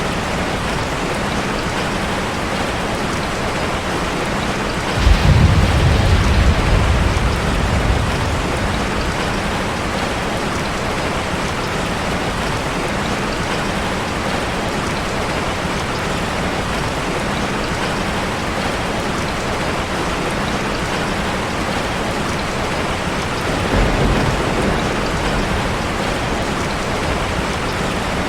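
Steady rush of falling water from a waterfall, with a deep low rumble swelling in about five seconds in for a few seconds and another near the end.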